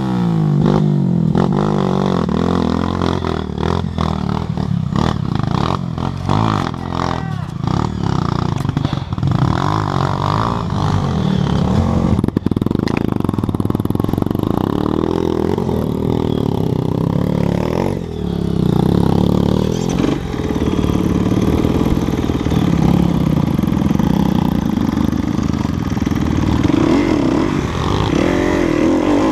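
Enduro dirt bike engine running and revving up and down as it rides over rough trail, with knocks and rattles during the first several seconds.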